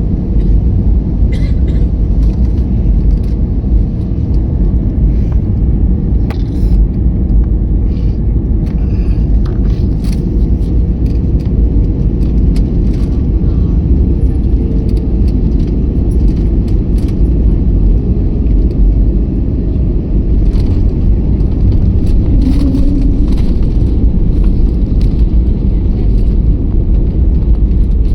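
Airliner landing: a steady, loud low rumble of engines and airframe, with a few faint clicks and knocks scattered through it.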